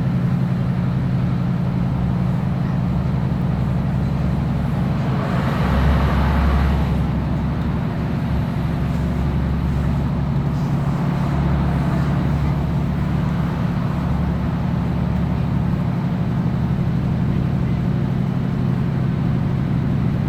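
Class 156 Sprinter diesel unit heard from inside the carriage: its underfloor Cummins diesel engine drones steadily over wheel and track rumble. The noise swells louder about five to seven seconds in.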